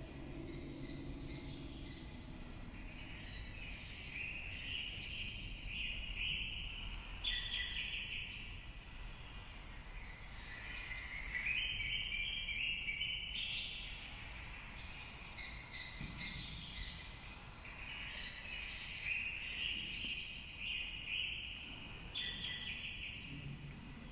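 Birds singing: short phrases of quick chirps come again every few seconds over a low steady background hiss.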